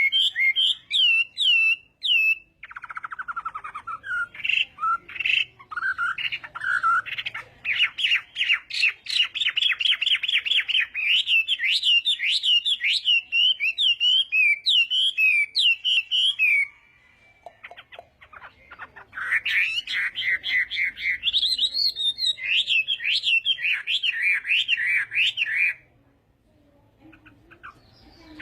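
Chinese hwamei (họa mi) singing: long, fast phrases of rapidly repeated whistled notes and trills. There is a pause of about two seconds partway through, and the song stops shortly before the end.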